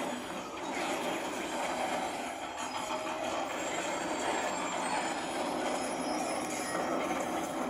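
Action-film soundtrack, a dense, steady din of sound effects, played loud through the MSI Titan GT77HX laptop's built-in speakers and subwoofers. It is loud enough to read about 88 dB on a sound level meter set in front of the laptop.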